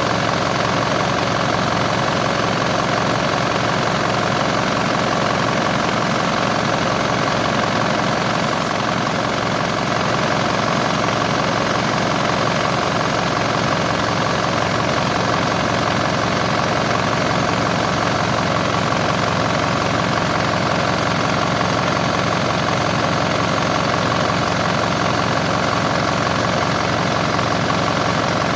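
Large engine idling steadily at an even speed.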